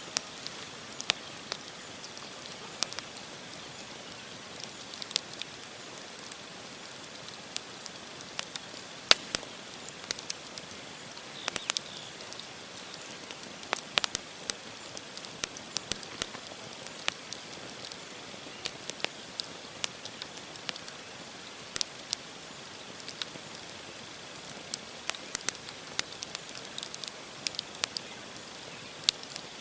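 Wood campfire burning, logs crackling with irregular sharp pops over a steady hiss.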